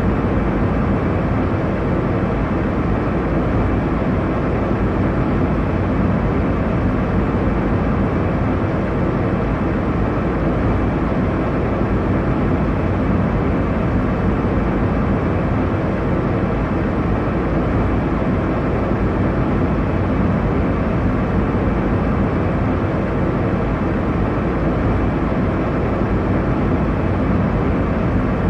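Steady airliner cabin noise: an even, deep rush of engine and airflow noise heard from inside the passenger cabin in flight, unchanging throughout.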